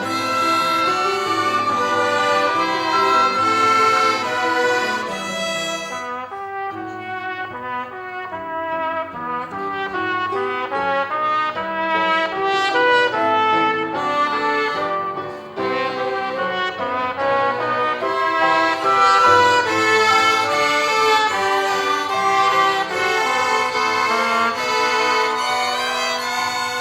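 Violin ensemble playing a hymn melody in long held notes, phrase by phrase, with short lulls about six seconds in and again about halfway through.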